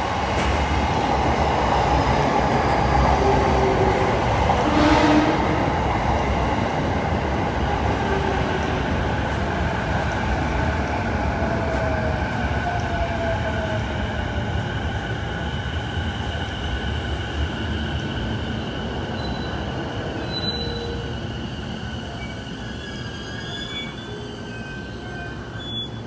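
JR East E233-series electric commuter train pulling into the platform and slowing to a stop, its wheels rumbling on the rails. The sound is loudest early and slowly fades, with a falling whine partway through and faint high squeals near the end.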